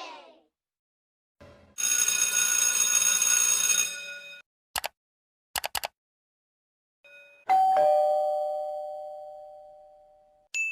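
A string of separate sound effects: a bright ringing tone lasting about two seconds, then three short clicks. Then a two-note ding-dong doorbell chime, the second note lower, rings out for about three seconds, and a short high ding sounds at the end.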